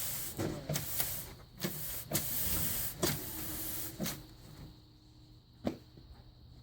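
Pieces of a desk pad being slid and handled on a desk: a rubbing hiss for about four seconds, broken by several sharp taps, then quieter with a single tap near the end.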